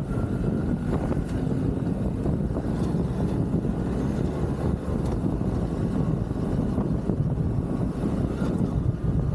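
Motorcycle engine running steadily on the move, with a low, rough wind rumble on the microphone.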